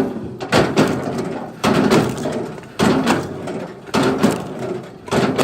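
Firewood knocking: sharp wooden knocks about once a second, each ringing briefly.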